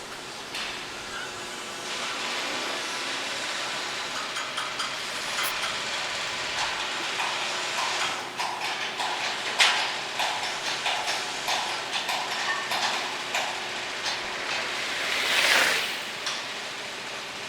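Construction-site noise: a steady hiss with a run of irregular metal clanks and knocks in the middle, then a hiss that swells and fades near the end.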